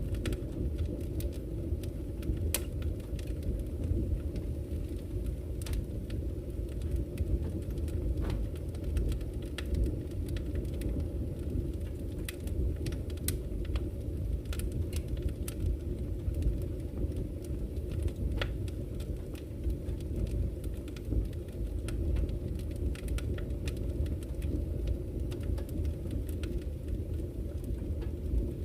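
Wood campfire crackling, with many scattered sharp pops and snaps, over a steady low rush of flowing river water.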